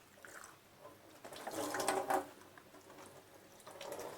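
Kitchen tap water running over a pigeon carcass being rinsed in the sink, with a louder splash about one and a half to two seconds in.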